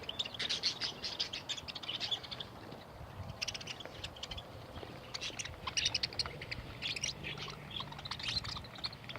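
A flock of small birds chirping in quick, overlapping bursts of short, high chirps, with no single song standing out.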